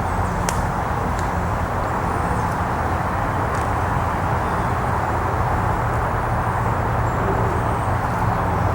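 Steady roar of road traffic from a nearby road, an even wash of noise with no single passing vehicle standing out.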